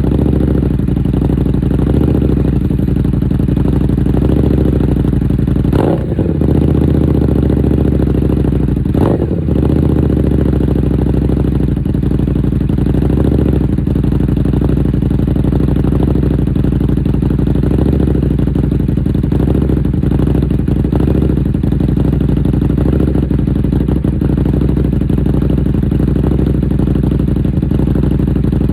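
Buell 1125CR's V-twin idling steadily through a loud aftermarket Dean Adams exhaust, with two short throttle blips about six and nine seconds in.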